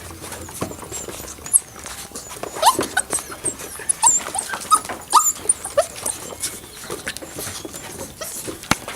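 A litter of young puppies at play, giving many short high yips and squeaks, with scattered taps and knocks.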